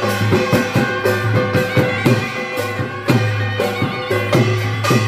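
Odia folk devotional music, an instrumental passage: hand drums beat a steady rhythm, their bass strokes dropping in pitch, under held melody notes.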